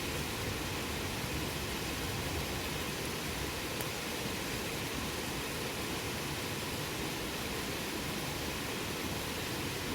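Campfire burning with a steady hiss and an occasional faint crackle.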